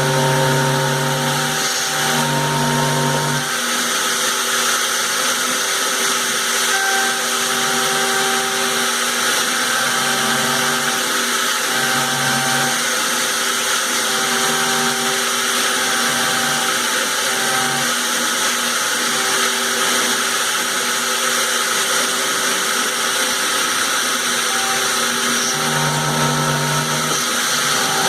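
Sienci Mill One desktop CNC mill running a milling job in acrylic: a steady spindle whine with a cutting hiss, and short motor tones that start and stop every second or two as the axes move.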